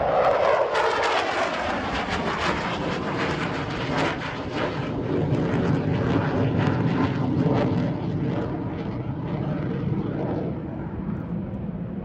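Jet noise from a J-10 fighter flying by: a loud, rough rush with a crackle in it. It turns duller over the last couple of seconds as the high hiss fades.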